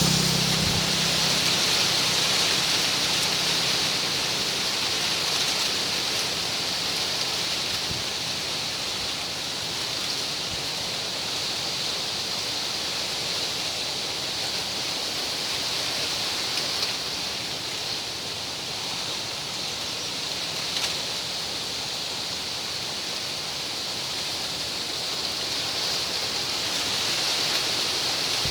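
Wind rustling the fan-shaped fronds of palmyra (sugar) palms: a steady, hissing rustle that swells slightly near the end.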